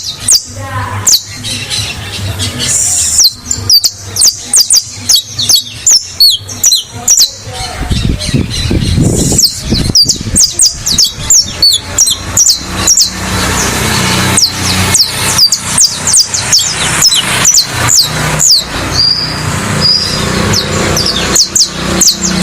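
Saffron finch (canário-da-terra) singing in a cage: rapid runs of high, sharply falling notes, broken by short pauses between phrases.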